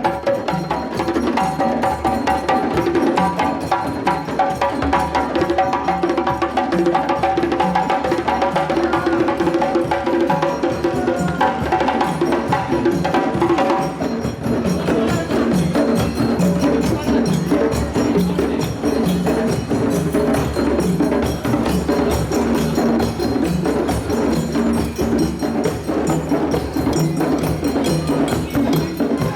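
African percussion ensemble playing a parade rhythm: drums with a clacking, wood-block-like part keeping a steady, continuous beat. The pattern changes about halfway through.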